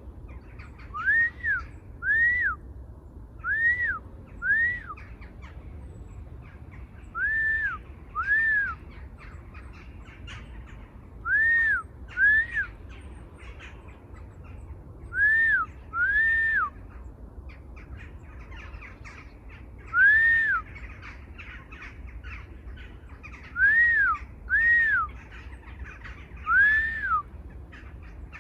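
A bird repeating a clear two-note call, each note rising and falling in pitch, the pair coming back about every four seconds. Fainter chirps from other birds run behind it.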